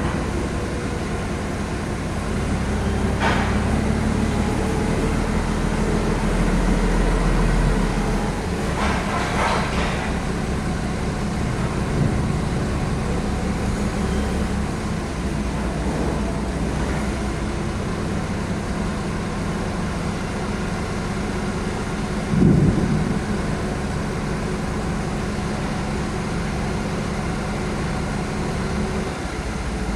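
A large vehicle's engine running steadily with a low hum. A few short, sharper noises stand out over it, one near the start, a longer one about a third of the way in, and a loud one about three quarters of the way through.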